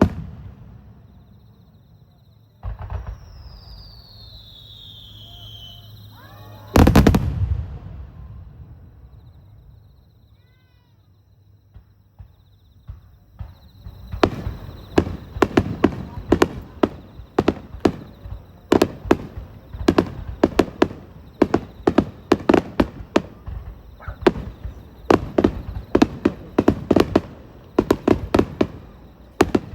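Aerial fireworks: a bang, then a falling whistle, then a very loud bang about seven seconds in. From about halfway through comes a rapid barrage of bursts, several bangs a second, the finale volley of the display.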